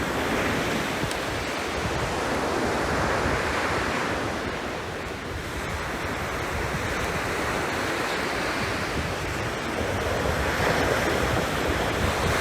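Sea waves breaking and washing up the shore, rising and falling in slow surges every few seconds, with wind.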